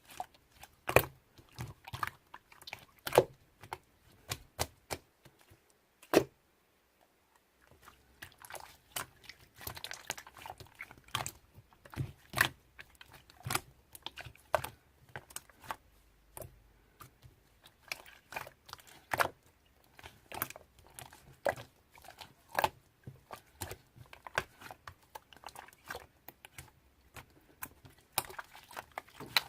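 Irregular, close-up clicks and taps, a few a second, with a brief pause a little after six seconds in.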